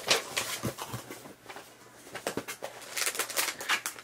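Plastic snack packets and box packing rustling and crinkling as they are picked through and handled: scattered crackles, a brief lull in the middle, then denser crinkling near the end.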